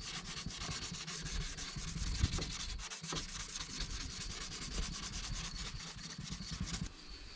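Hand sanding block rubbing back and forth on a wet plastic headlight lens in rapid, even strokes, wet-sanding off the oxidised haze; the sanding stops just before the end.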